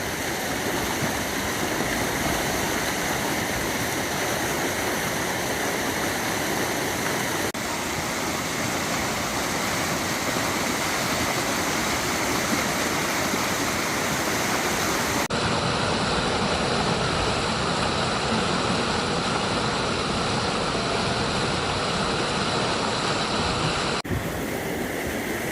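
Steady rushing of the Lower Düden Waterfalls, a river plunging over a high cliff into the sea. The sound shifts abruptly three times.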